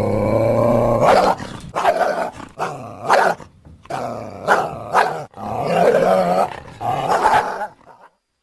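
Archaeocyon creature sound effect, dog-like: a held, low growl, then a run of short sharp barks and snaps, and two longer snarls before it stops near the end.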